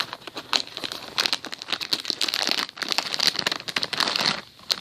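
Packaging crinkling and rustling in irregular bursts as an airmail package is opened by hand; it quietens near the end.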